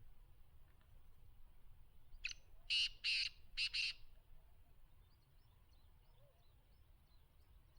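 Black francolin calling: one grating phrase of about five harsh, rasping notes, a short lead-in note followed by two quick pairs, lasting under two seconds.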